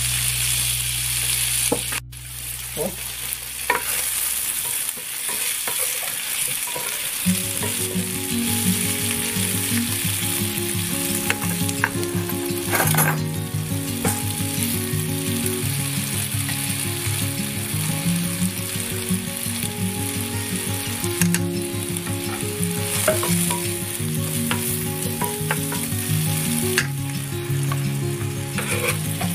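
Cut red potatoes frying in hot fat in a cast iron skillet: a steady sizzle, with a few sharp knocks and scrapes of a utensil against the pan.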